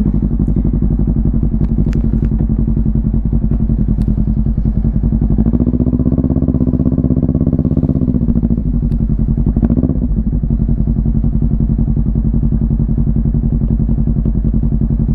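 Motorcycle engine running close by with a steady, even beat. Its speed rises a little about five and a half seconds in and drops back to the earlier steady note a few seconds later.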